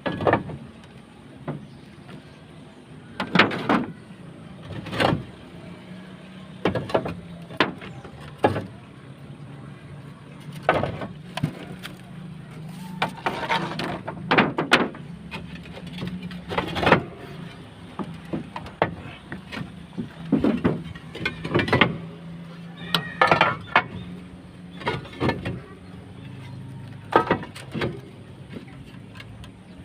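Irregular knocks, bangs and clatters from work on a roof's galvanized sheet-metal gutter, over a steady low hum.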